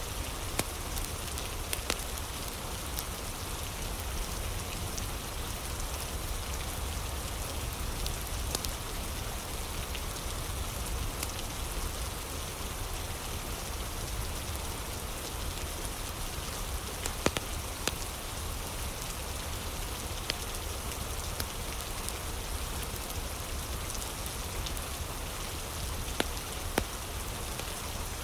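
Steady rain with a fire crackling, sharp pops sounding now and then over the even hiss of the rain, a louder pop past the middle and two more near the end.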